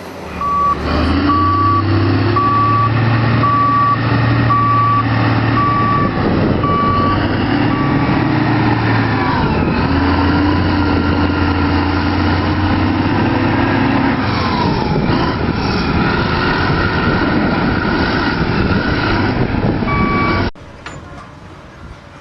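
Heavy construction vehicle's diesel engine working, its pitch rising and falling under load. Its reversing alarm beeps steadily, a little more than once a second, for the first half, then stops. Near the end the sound cuts off abruptly to a quieter rumble.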